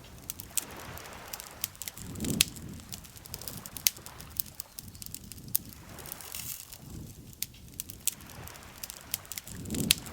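Campfire crackling, with many sharp, irregular pops and snaps of burning wood over a soft hiss. A low, soft swell rises twice, about two seconds in and near the end.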